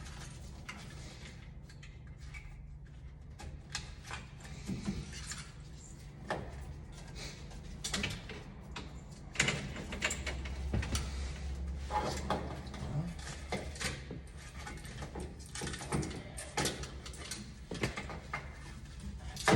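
Scattered clicks, knocks and scrapes of hand work on an HVAC unit's metal panels and parts, over a steady low hum.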